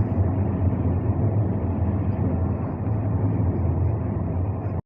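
Train running: a steady low rumble with a continuous noise of travel, which breaks off for an instant near the end.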